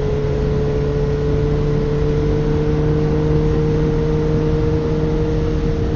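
Suzuki GSX-R1000's inline-four engine running at a steady cruise, its pitch creeping slightly upward, with wind noise rumbling underneath.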